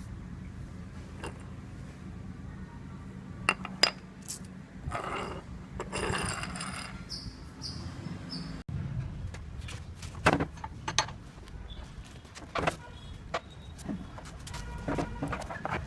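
Motorcycle front wheel making scattered metallic clicks and clinks with a few short high squeaks, over a low steady hum that stops abruptly about halfway through. The squeak comes from a dry front wheel worm (speedometer drive gear) that needs cleaning and grease.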